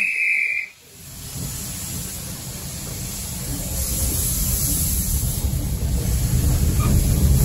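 A guard's whistle blown once, a short steady blast, then the low rumble of a narrow-gauge railway carriage getting under way on the rails, growing steadily louder as the train gathers speed.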